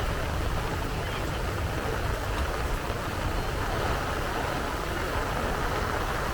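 Steady rain falling, an unbroken hiss with a low rumble underneath.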